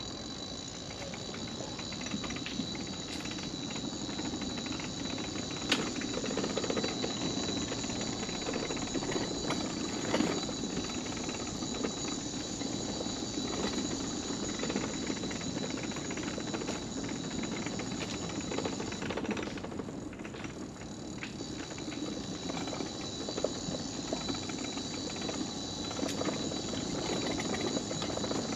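Mobility scooter rolling along a wooden boardwalk: a steady high electric-motor whine over the rumble and small knocks of its wheels on the planks, easing off briefly about twenty seconds in.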